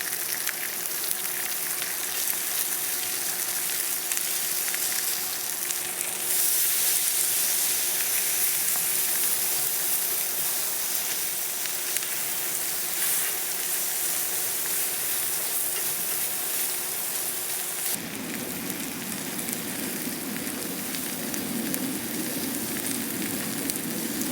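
Meat sizzling on a hot iron griddle plate, a steady crackling hiss. About three quarters of the way through, the high hiss thins and a lower rushing sound takes over.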